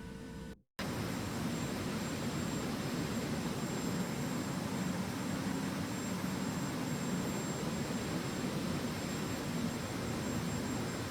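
Airliner cabin noise: a steady rush of jet engine and airflow noise, heaviest in the low range, with faint steady high whines. It begins after a brief cut-out just under a second in.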